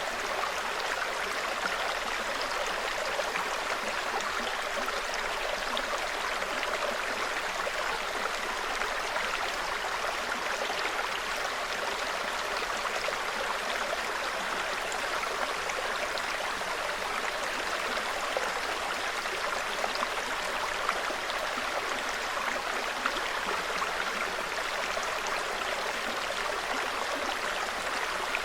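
A small forest stream babbling steadily over stones.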